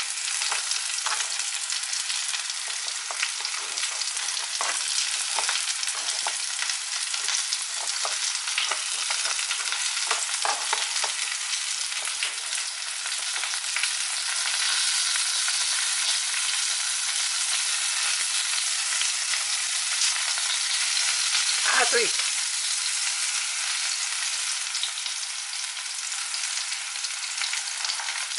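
Food frying in hot oil: a steady sizzle with scattered small crackles. There are a few light knife knocks on the cutting board in the first half, and a short falling squeal about three-quarters of the way through.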